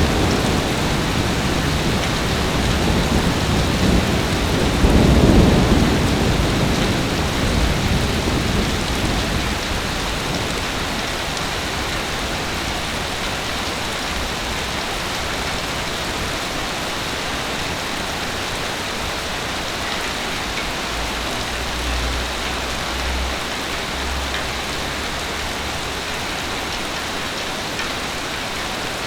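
Heavy rain falling steadily. A low rumble of thunder swells a few seconds in and dies away by about ten seconds in.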